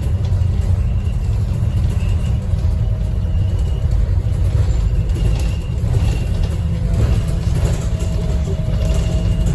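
Interior sound of a Scania N230UD Optare Visionaire double-decker bus on the move: a steady, loud low rumble of engine and road noise, with faint high tones coming and going.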